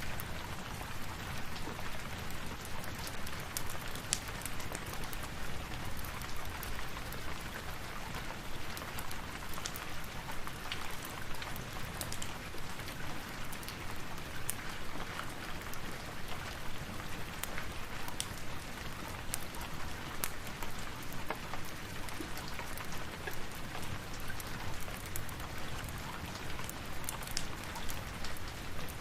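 Steady rain falling, with many small sharp ticks of drops striking a surface.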